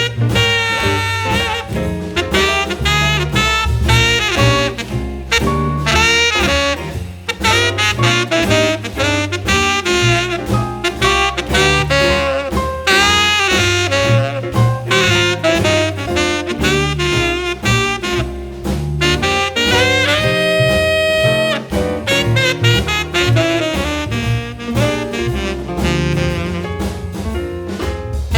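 Jazz music led by a saxophone playing a bending melodic line over a walking bass, with one long held note about twenty seconds in.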